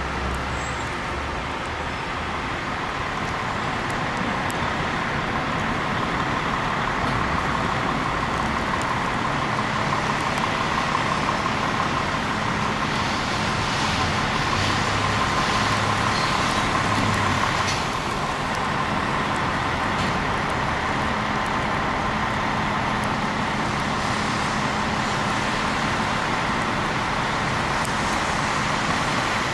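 Steady city street traffic noise with vehicle engines running.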